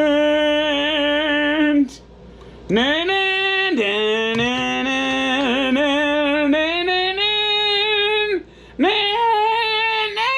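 One voice singing or humming long held notes in three stretches with short breaks between. Each stretch starts with an upward slide, and the notes climb in pitch across the stretches.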